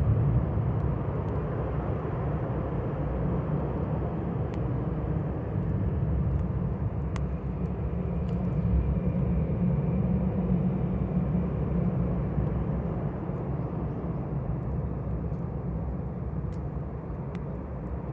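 Campfire burning with scattered sharp crackles and pops, over a steady low rumble.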